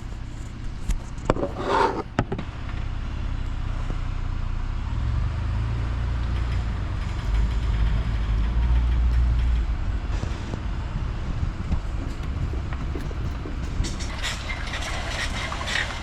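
Pickup truck engine running as it drives off towing a travel trailer, a steady low rumble that grows louder for a few seconds midway.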